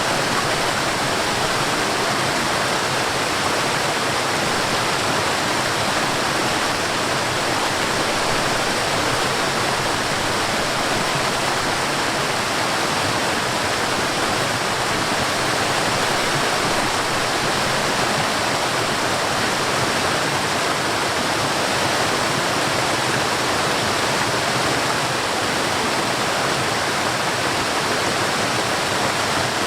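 Forest waterfall: water falling and splashing in a steady, even rush with no breaks or changes.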